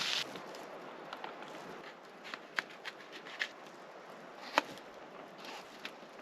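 Faint steady hiss with sparse, sharp crackles and clicks, the loudest about four and a half seconds in: a quiet cooking fire crackling.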